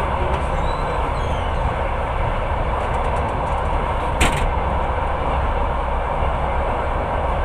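Passenger train running at speed: a steady rumble and rail noise, with one sharp click about four seconds in.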